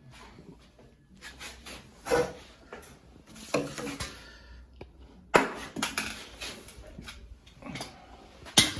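Irregular clicks, knocks and rustling from hands working thread and parts on an industrial sewing machine while threading it for bobbin winding. The sharpest knocks come about 2 seconds in, about 5 seconds in and near the end.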